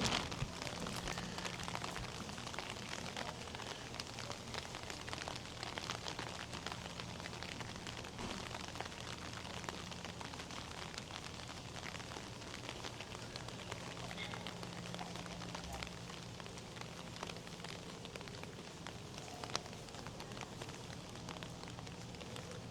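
Steady rain falling, a dense patter of drops with a steady low hum underneath, and one sharper tick near the end.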